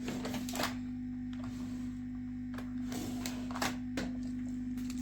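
Steady hum of a hot air rework station's blower running after being switched on, with a few scattered clicks and rattles of small tools or parts being handled on the bench.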